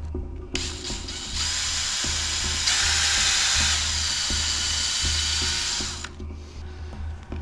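Electric drill running and boring into wood for about five seconds, louder midway, then stopping. A low steady beat of background music runs underneath.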